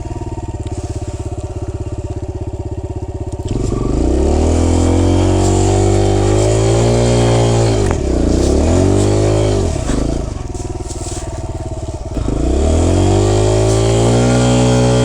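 Dirt bike engine running steadily, then revved hard about three and a half seconds in, its pitch rising and falling several times as it labours up a steep hill climb. It drops back for a couple of seconds around ten seconds in, then revs up again.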